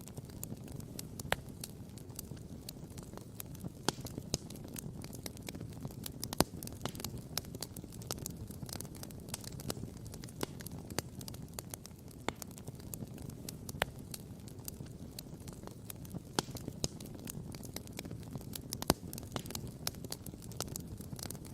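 Wood campfire crackling and popping: many sharp irregular pops, a few of them louder, over a steady low rumble.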